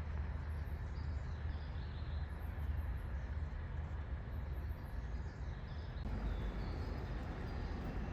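Outdoor ambience: a steady low rumble with faint, scattered high chirps above it. The background changes abruptly about six seconds in.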